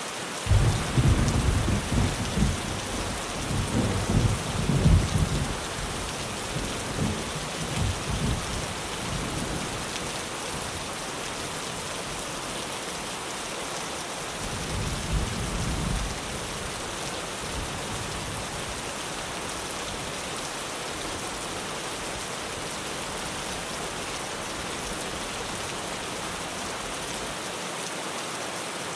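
Rain falling steadily on a tin roof, with thunder rumbling from about half a second in for several seconds, then a shorter, softer roll of thunder around the middle.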